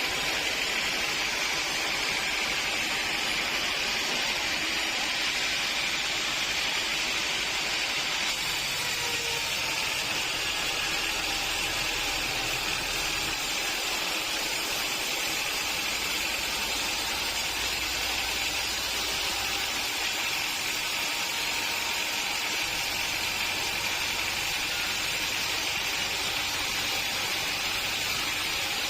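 Steady hissing machinery noise of a sawmill running, even throughout with no distinct cuts or knocks.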